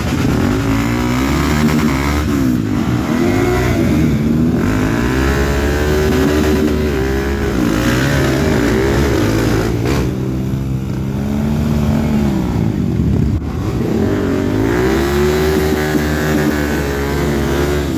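Off-road trail motorcycle engines revving hard, their pitch rising and falling over and over.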